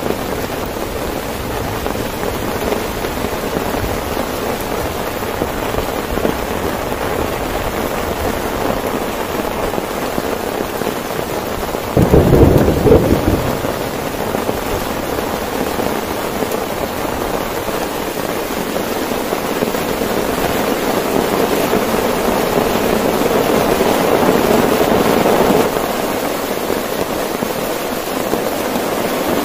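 Heavy rain pelting a tent in a thunderstorm, with a sudden clap of thunder about twelve seconds in that lasts about a second. The rain swells louder for several seconds later on, then eases.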